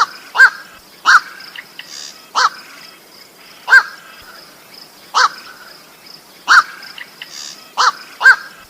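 Black-crowned night heron (koak) giving short harsh 'kwok' croaks, about one every second or so, some in quick pairs, over a steady faint high hiss.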